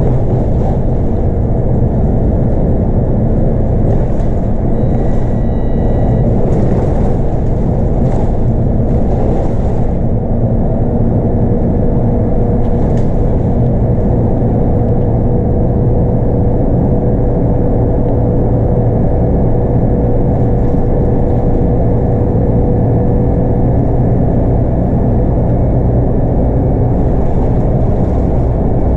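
Scania K230UB bus's 8.9-litre five-cylinder DC9 diesel and ZF Ecomat automatic gearbox running steadily under way, heard from inside the cabin as a constant low rumble. A few rattles come in the first third, and a steady whine holds for about twelve seconds in the middle.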